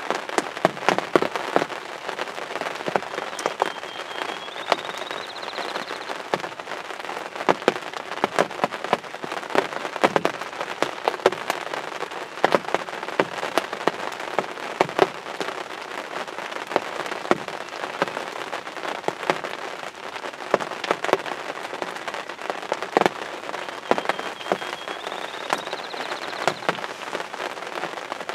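Steady rain pattering, with many sharp, close raindrop hits on the hunting blind. A short rising whistle sounds twice, once about 4 seconds in and again near the end.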